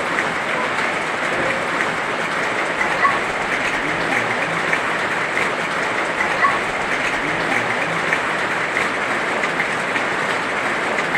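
Heavy rain falling, a steady dense hiss with scattered louder drop ticks.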